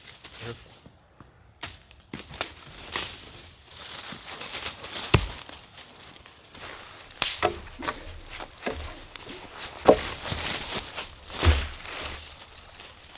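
Hand tools striking wood: irregular knocks and taps, with three harder blows about five, ten and eleven and a half seconds in.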